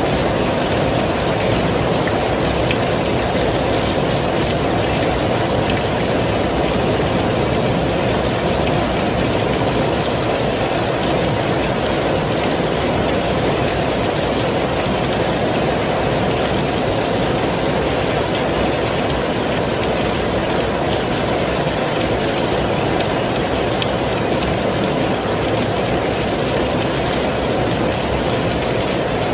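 Heavy rain falling, a steady, dense, even sound with no breaks.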